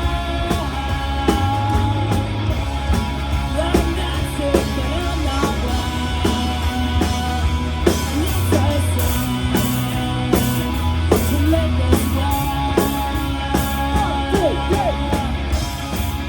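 Live rock band playing an instrumental passage: drum kit and bass with electric guitar lead lines, held notes that bend in pitch.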